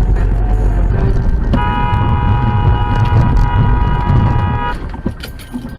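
A car horn is held steadily for about three seconds over the low rumble of road and engine noise, then the sound fades out.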